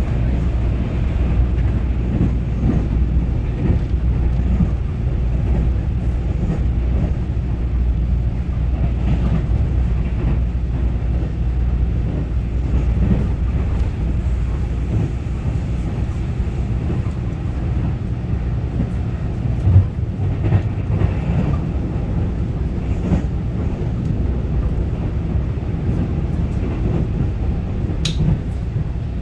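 Taiwan Railway EMU900-series electric multiple unit (set EMU923) running along the line, heard from inside the passenger car as a steady low rumble of wheels and running gear. A couple of knocks come about two-thirds of the way through.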